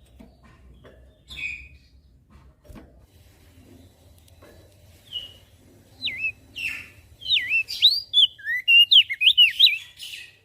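Crested darkeye (opior jambul) singing: a couple of short chirps, then about four seconds from the end a quick, loud run of whistled notes that sweep up and down in pitch.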